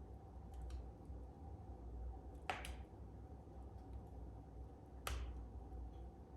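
Wood fire crackling in a fireplace: a few sharp pops, the loudest about two and a half seconds in and just after five seconds, over a low steady rumble.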